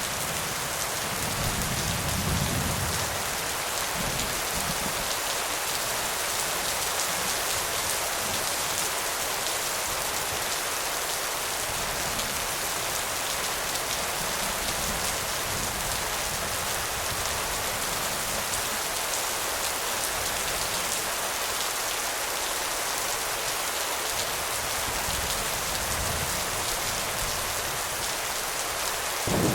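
Steady rain falling, a dense even hiss of drops. A faint low rumble swells about two seconds in, and a thunder rumble starts right at the end.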